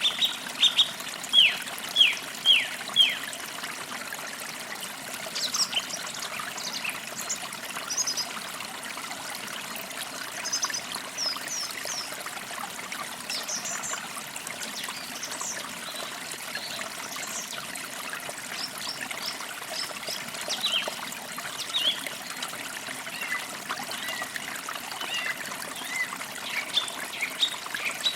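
Forest creek trickling steadily, with birds singing over it: a run of about six loud downward-sweeping notes in the first three seconds, then scattered short high chirps throughout.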